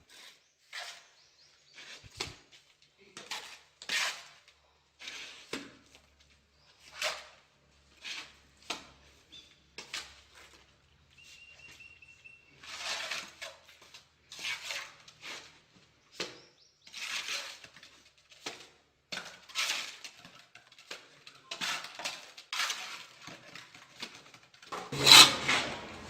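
Irregular clinks, taps and scrapes of a tile mason's hand tools on tile and mortar, about one every second, with louder rubbing and scraping near the end.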